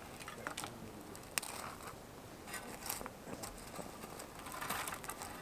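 Scattered light clicks and soft rustling from small objects being handled, a little busier near the end.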